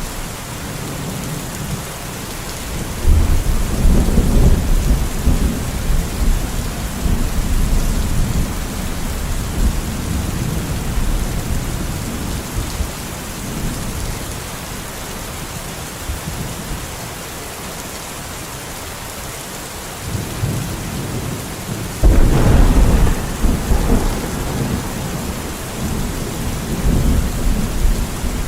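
Steady rain hissing throughout, with two long low rolls of thunder: one about three seconds in that slowly fades over several seconds, and a sharper one that breaks in suddenly past the twenty-second mark.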